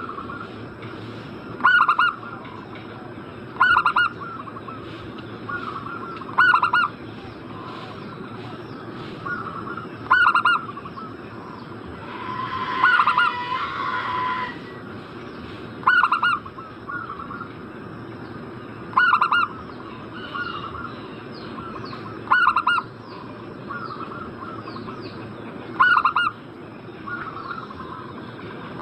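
Zebra dove (perkutut) cooing: short, clipped phrases repeated about every two to four seconds, about nine loud ones with softer notes between. About halfway through, a hissing rush lasts around two seconds.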